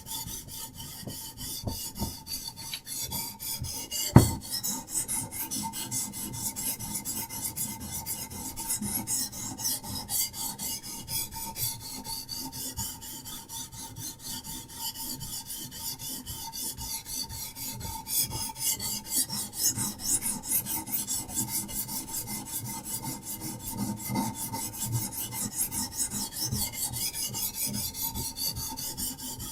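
Diamond sharpening stone on a Hapstone RS guided sharpening system scraping along a knife blade's edge in quick, continuous back-and-forth strokes. A single sharp knock about four seconds in.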